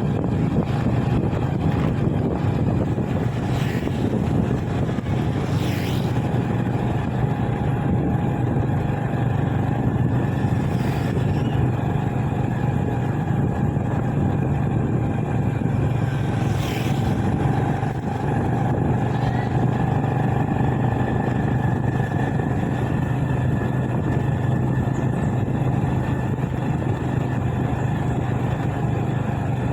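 Motorbike engine running at a steady cruising speed, a constant hum with road and wind noise, and a few brief high-pitched sounds over it.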